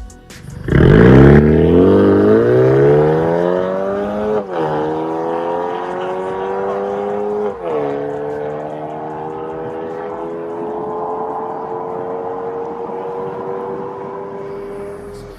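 BMW 420i's B48 turbocharged four-cylinder through an MS-R valved cat-back exhaust, accelerating hard. The exhaust note rises steadily in pitch, drops sharply at two upshifts about four and a half and seven and a half seconds in, then climbs slowly through the next gear.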